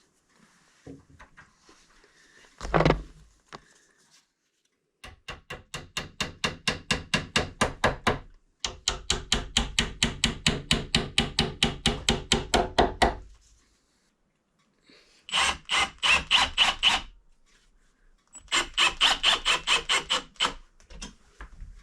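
A tool working wood in four bursts of rapid, even, squeaky strokes, about five a second, after a single knock a few seconds in.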